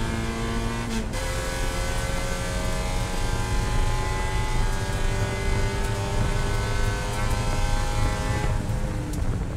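Spec Miata race car's four-cylinder engine at full throttle, heard from inside the cockpit. It shifts up about a second in, with the pitch dropping, then revs steadily higher down the straight.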